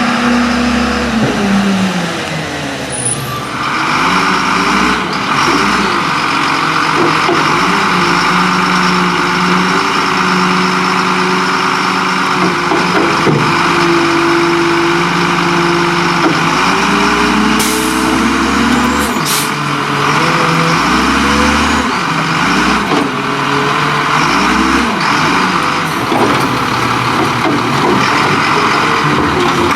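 Leach Curbtender rear-load garbage truck with its engine revving up and down over and over. A steady hiss sets in about three seconds in.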